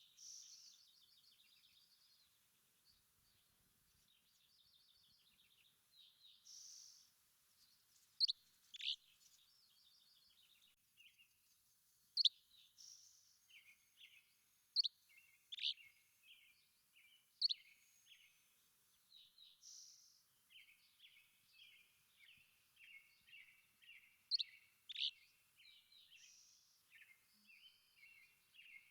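Wild songbirds calling and singing: sharp high whistled notes every second or two, over rapid runs of short chirps and trills.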